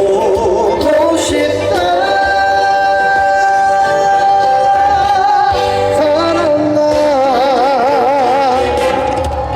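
Live trot song with band backing, a singer holding long sustained notes, the last one wavering in a wide vibrato near the end.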